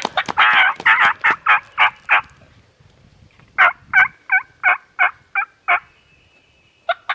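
Wild turkeys calling: a rapid, rattling gobble runs through the first two seconds. After a short lull comes a series of about seven evenly spaced yelps, and a short call follows near the end.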